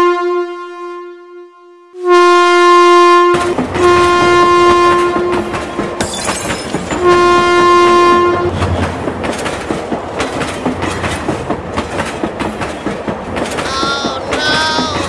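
Train horn sounding in several long steady blasts, joined a few seconds in by the continuous clatter of a running train on its track. Near the end come two short wavering high-pitched tones.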